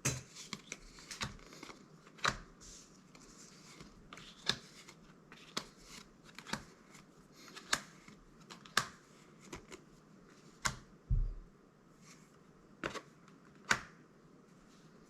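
Magic: The Gathering trading cards handled one at a time while a booster pack is looked through: a sharp flick of card stock roughly once a second, with faint sliding and rustling in between.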